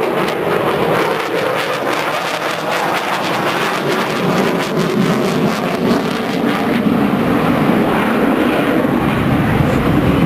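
Military aircraft flying overhead, its engines making a loud, steady noise that crackles through the first half and smooths out about six seconds in.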